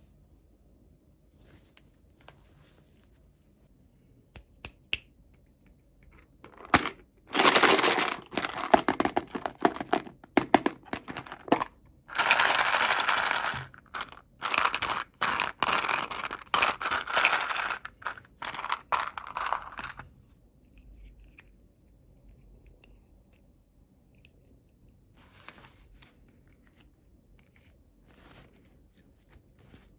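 Toy packaging being torn open and crinkled by hand in a long run of irregular bursts, then only a few faint light clicks of handling.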